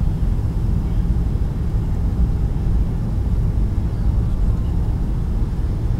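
Steady low rumble of a Boeing 757-200's engines and airframe heard inside the cabin, with no change in level.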